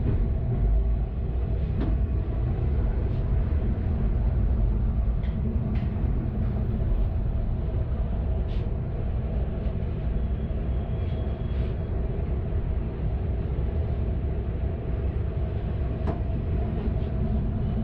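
Kanto Railway KiHa 532 diesel railcar running, a steady low engine drone with a few faint clicks.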